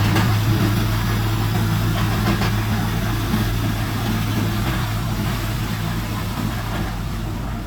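Heavy diesel engine of earthmoving machinery running steadily at an even speed, growing slightly fainter over the few seconds.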